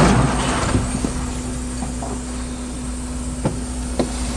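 Steady low rumble and hum of a car recorded from the inside by a dashcam, with a faint high electrical whine and a couple of faint clicks near the end. It opens on the fading end of a loud bang.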